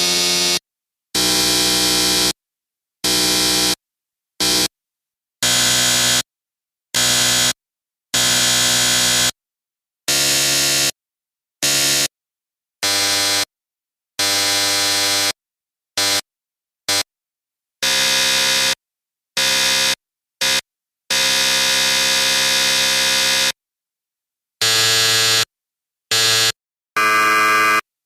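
Electric buzzer sounding in a string of separate buzzes, some short blasts and some held for a second or more, each cutting off sharply with silence between.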